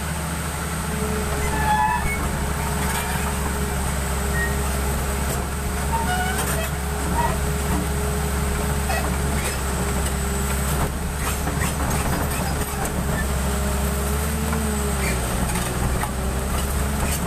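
Excavator's diesel engine running steadily under a continuous whine that wavers in pitch about fifteen seconds in, with short high chirps scattered on top.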